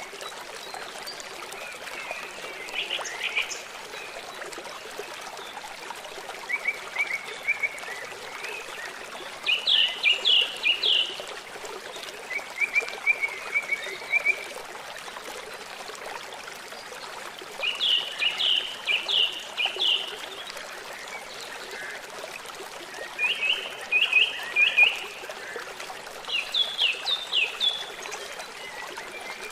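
Songbird singing short phrases of rapid, repeated high notes, a new phrase every few seconds, over the steady trickle of a stream.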